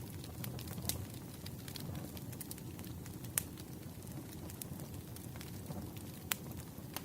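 Wood fire crackling: scattered sharp pops and snaps over a low steady rumble of burning logs, the loudest pops about three and a half seconds in and near the end.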